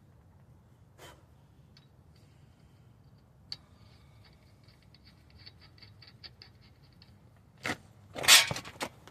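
Tools and parts being handled during hub and knuckle work: a sharp click, then a run of quick light clicks, about six a second, for three and a half seconds, then two loud knocks near the end, the second the loudest.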